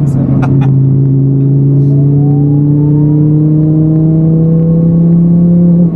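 Twin-turbocharged Audi R8 5.2 V10 engine heard from inside the cabin, pulling at part throttle with its pitch climbing slowly. The pitch steps at the start and again near the end, and there are a few light clicks in the first second.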